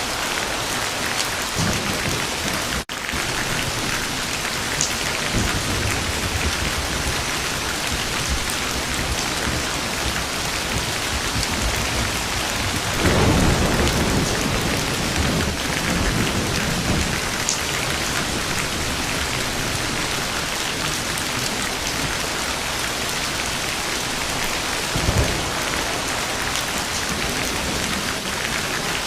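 Steady heavy rain falling, with rolls of thunder rumbling underneath; the loudest thunder swells about halfway through, with a shorter rumble later on.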